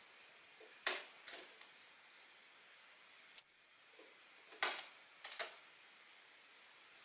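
Orange-headed thrush calling: a few short sharp chip notes and one thin, high, loud 'tsee' note about three and a half seconds in. A steady high buzz, likely an insect, runs under it and stops about a second in.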